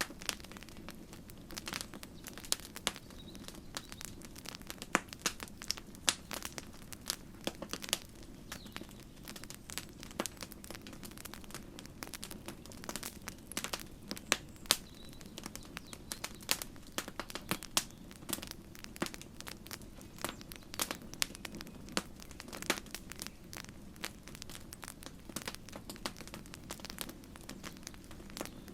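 Campfire crackling: a constant irregular stream of sharp pops and snaps from burning wood over a low steady rumble of the flames. A faint short high bird note sounds twice, a few seconds in and about halfway.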